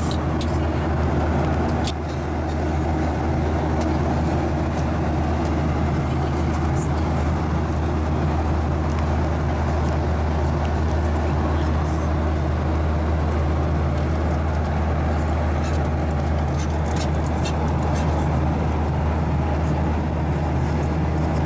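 Steady cabin drone of a Boeing 737-900ER in flight: a constant low hum from its CFM56-7B engines under the rush of air, with a few faint ticks from the cabin.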